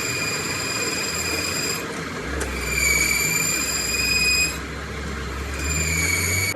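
Machine tool cutting metal: a steady high whine with overtones, in three stretches, over a low machine hum.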